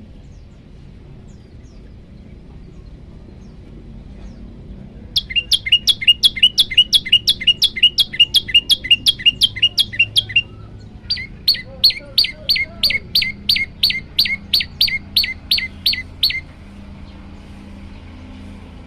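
Prenjak lumut singing: two runs of rapid, evenly repeated sharp falling chirps, about four a second. Each run lasts about five seconds, with a brief pause between them and a slightly different note shape in the second run. The song starts about five seconds in and stops a couple of seconds before the end.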